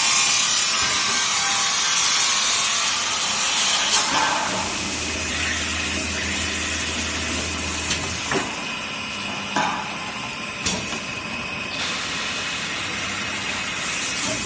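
Glass drilling machine running: a steady, loud hiss of grinding, with a low motor hum that comes in about five seconds in and stops a few seconds later, and several sharp knocks.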